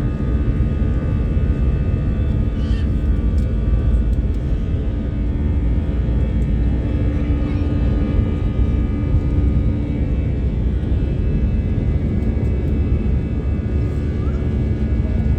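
Airplane engines running with a steady, even drone: a deep rumble with several steady tones above it.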